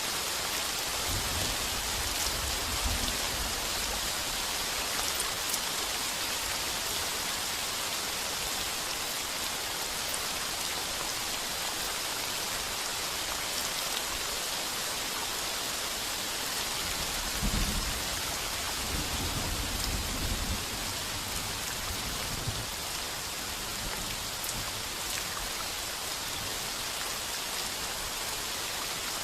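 Heavy rain drumming steadily on a tin roof, a dense even hiss. Low rolls of thunder rumble under it about a second in and again a little past the middle, the second lasting several seconds.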